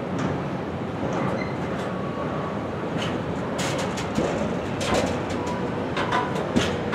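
Container-laden freight wagons rolling past close by: a steady rumble of wheels on rail with scattered clanks and clicks, coming more often from about three seconds in.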